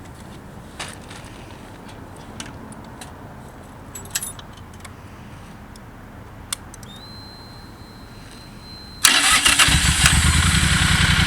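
A few faint clicks and a high steady whine for about two seconds, then the 2014 Triumph Thunderbird 1600's fuel-injected parallel-twin engine starts about nine seconds in and runs on at a steady idle.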